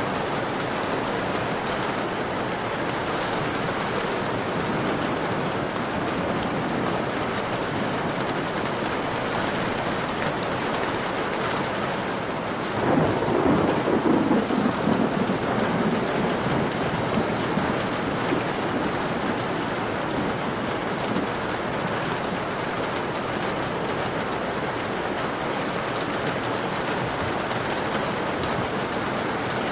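Steady rain falling on a window pane, with a rumble of thunder about halfway through that swells suddenly and fades away over a few seconds.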